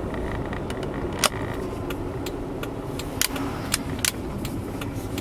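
Honda Zest kei car, steady low rumble of engine and road, with sharp irregular clicks and rattles. The loudest clicks come about a second in and again between three and four seconds in.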